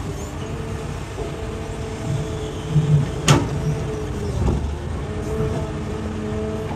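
Hitachi excavator's diesel engine running steadily as it digs rock, with a sharp clank about three seconds in and a few low thuds around it.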